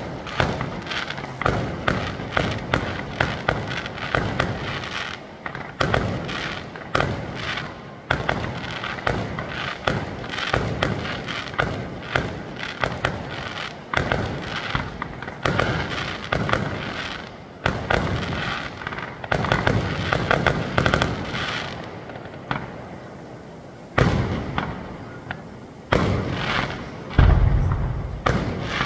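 Aerial fireworks display: a dense, continuous run of sharp shell bursts and bangs, with a few heavier, deeper booms near the end, the loudest just before it closes.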